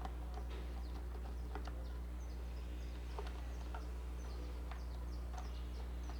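Light clicks and taps of a screwdriver working screws out of a steam iron's housing, over a steady low electrical hum. Faint high chirps of birds sound now and then.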